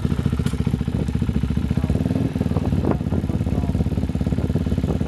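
Dirt bike engine idling steadily with a rapid, even beat, held in first gear with the clutch in before pulling away.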